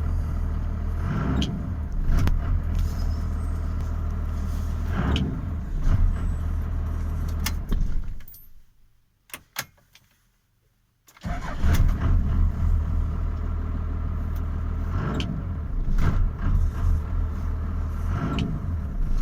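Cummins 12-valve 5.9-litre inline-six diesel idling roughly, with an uneven beat and irregular surges. A little before halfway the sound drops away and is gone for about three seconds, with a couple of faint clicks, then the idle comes back abruptly.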